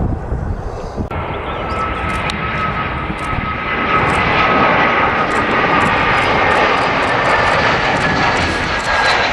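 Turkish Airlines Airbus A321's two IAE V2533-A5 turbofan engines as the jet passes close by: a loud jet rush with whining tones that sets in suddenly about a second in, grows louder about four seconds in, and slowly falls in pitch as the aircraft goes past.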